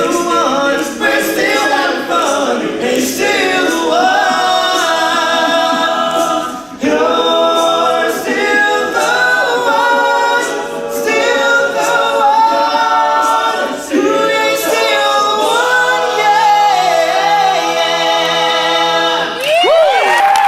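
Male a cappella vocal group singing in close multi-part harmony, with no instruments. Near the end the song finishes and whoops and cheering from the audience break out.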